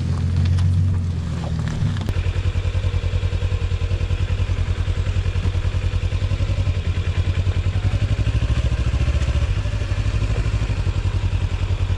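Kawasaki Ninja 300 parallel-twin engine starting up about two seconds in, then idling with a rapid, even throb.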